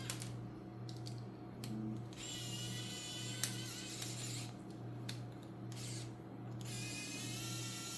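Screwdriver work on an RC car servo's mounts: a few sharp clicks and taps of the tool and small plastic parts, one louder click about halfway through, over a steady low hum.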